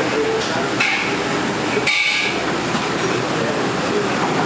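Steady, loud background din of a busy eating place, with faint voices and two short, sharp, hissy noises about one and two seconds in.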